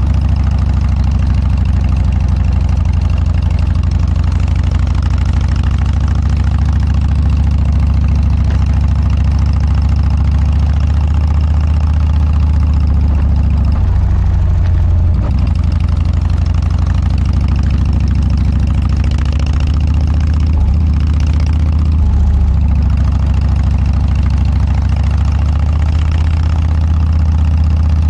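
Harley-Davidson Dyna's V-twin engine running steadily through a Motorstage aftermarket muffler, a deep, even exhaust note that shifts briefly about halfway through.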